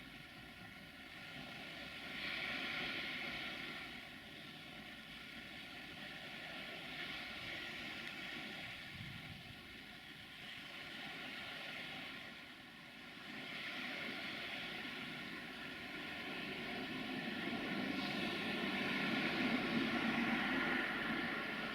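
Camera drone's propellers humming with a steady multi-tone whine, over a rushing noise that swells and fades every few seconds and grows louder near the end.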